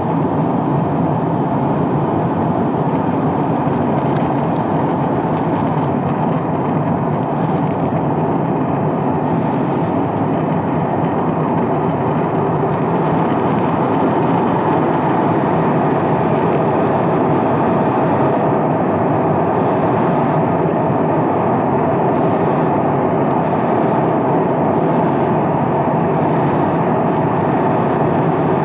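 Steady cabin noise of an Airbus A350-900 airliner in cruise: an unbroken rush of airflow and the hum of its Rolls-Royce Trent XWB engines, constant in level throughout.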